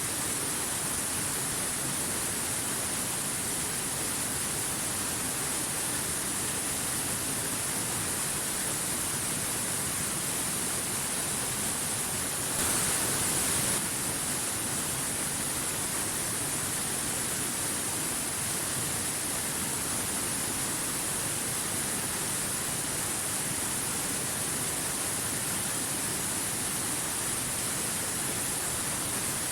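Rushing stream splashing over rocks, a steady hiss of moving water that swells briefly for about a second near the middle.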